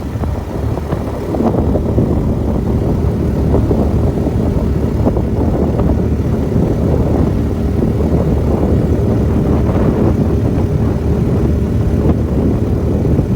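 Hot-rod duck boat's engine running under way at speed. It picks up about a second and a half in, then holds a steady, loud drone.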